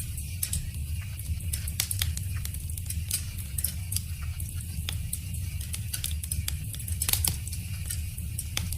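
Wood fire crackling, with irregular sharp snaps and pops over a steady low rumble; a few louder snaps about seven seconds in.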